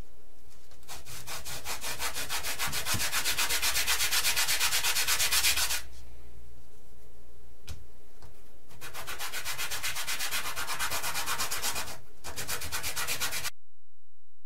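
Hand sanding: rapid, even back-and-forth rubbing strokes, several a second, in two spells with a short pause between, then an abrupt cut to silence near the end.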